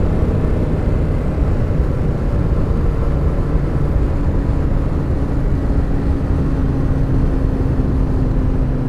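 Suzuki motorcycle riding at a steady cruise: engine hum under heavy wind rush on the rider's microphone. A steady engine note holds at one pitch from about four seconds in.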